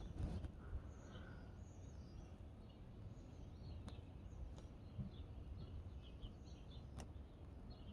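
Faint outdoor ambience: small birds chirping in short scattered calls over a low rumble of wind on the microphone, with a few sharp clicks, the loudest near the end.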